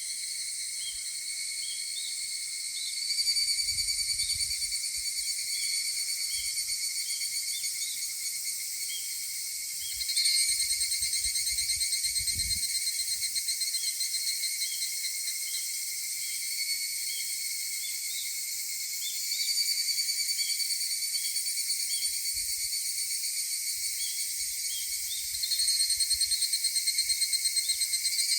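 Higurashi (evening cicadas, Tanna japonensis) calling in an overlapping chorus of rapid, pulsing trills. A fresh call swells in loud and fades back four times, with a faint repeated short chirp beneath.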